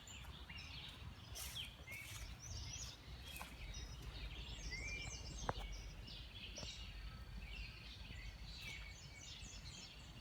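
Several songbirds chirping and singing in short, overlapping high calls, over a steady low rumble, with one brief click about five and a half seconds in.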